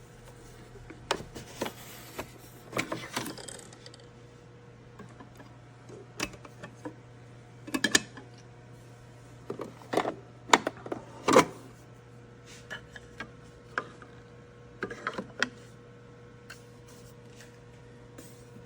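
Irregular clicks and knocks of plastic parts being handled on a Nespresso Vertuo Pop capsule coffee machine, in clusters, with the loudest near the middle, over a steady low hum.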